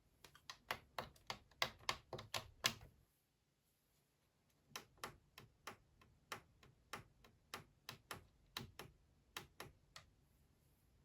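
A Blomberg WAF 7442 SL washing machine giving off a run of sharp, regular clicks, about three or four a second, then pausing for nearly two seconds before a second, longer run of clicks.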